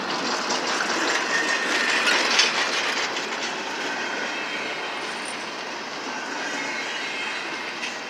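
Double-stack intermodal well cars rolling past close by: steady steel wheel-on-rail rumble and rattle, with a faint high wheel squeal. The noise is loudest about two seconds in.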